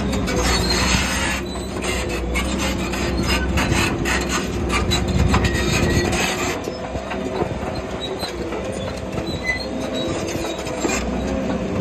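Crawler bulldozer's diesel engine running, with its steel tracks clanking and squealing. The dense clatter thins out about six and a half seconds in while the engine keeps running.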